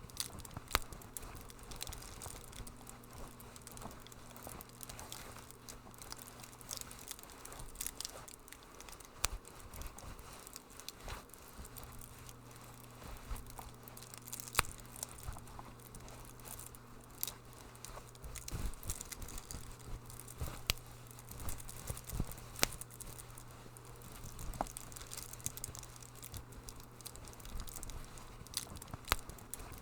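Wood fire in a fireplace crackling with irregular small snaps and a few sharper pops, over a faint steady low hum.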